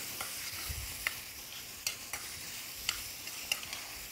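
Beef and onions frying in butter in a stainless steel sauté pan, sizzling steadily while a spoon stirs them, the spoon clicking against the pan a few times.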